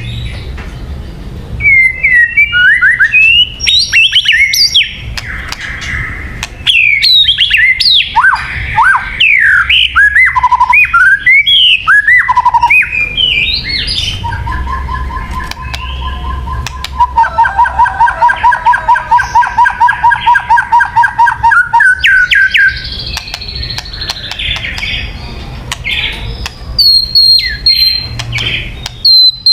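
White-rumped shama singing: a loud, varied song of whistles and slurred up-and-down notes, then a long fast run of evenly repeated notes through the middle, with a few sharp high notes near the end.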